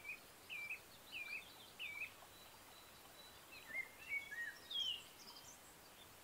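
A wild bird calling: four short, repeated chirps about two-thirds of a second apart, then after a pause a few more varied notes ending in a falling note about five seconds in, over faint steady outdoor background noise.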